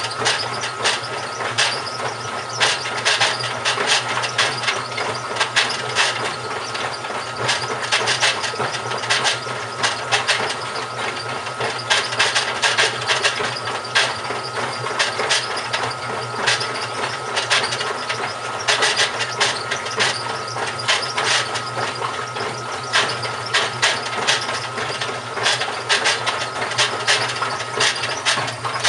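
GE WHDSR315DWW washing machine running with a grinding noise: a steady low hum and a high whine under rapid, irregular clicking and scraping. The owner suspects the transmission is going bad.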